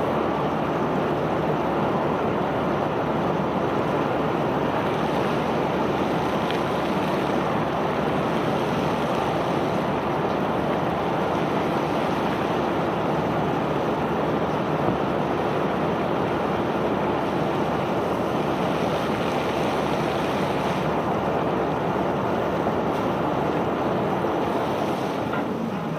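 Self-unloading barge discharging bulk cargo (iron ore or river rock), a steady continuous rush of loose material pouring off the unloading conveyor. It eases off and gets quieter near the end.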